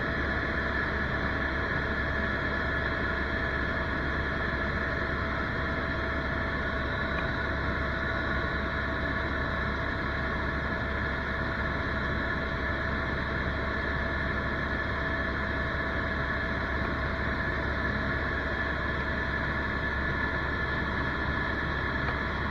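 Helicopter in flight heard from inside the cabin: a steady engine and rotor drone with a low hum and a constant high whine over it.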